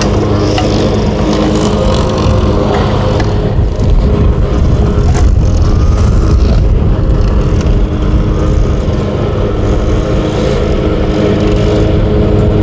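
Small petrol engine of a lawn mower running steadily nearby, getting a little louder about four seconds in, with a few faint clicks over it.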